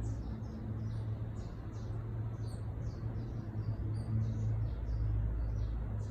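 Small songbirds chirping a rapid run of short, high notes, with a steady low hum underneath.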